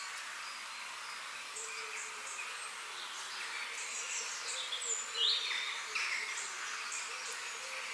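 Forest ambience: several birds chirping and calling in short gliding notes over a steady high hiss of insects, with a louder falling whistle about five seconds in.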